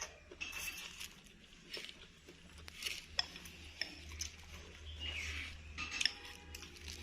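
Spoon clinking against a bowl in irregular sharp clicks, with eating noises in between.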